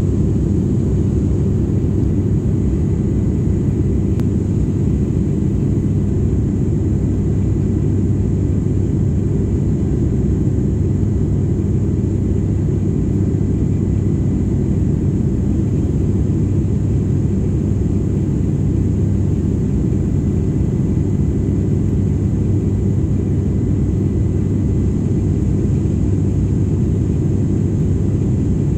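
Steady cabin noise of an airliner in flight: a constant low engine and airflow rumble with a faint steady whine above it, unchanging throughout.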